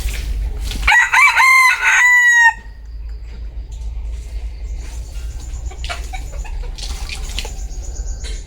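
Vietnamese bantam rooster (gà tre) crowing once, a crow of about a second and a half ending on a falling note. Afterwards only faint background noise.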